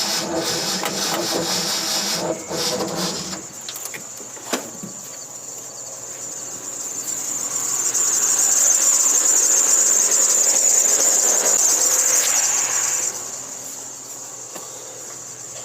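Old car engine running unevenly for the first few seconds, then dropping away. A loud, high-pitched squeal from the worn drive belt builds up, holds for several seconds and then fades near the end.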